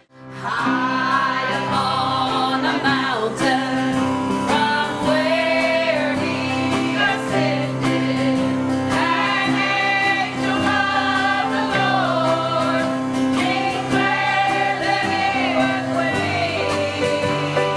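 Gospel song sung by a group of voices, a choir or praise team, over steady held instrumental chords.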